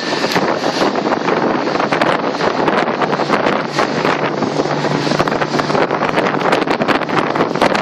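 Heavy wind buffeting the microphone on a small open boat running at speed, with the steady drone of its 50hp Yamaha outboard faint underneath.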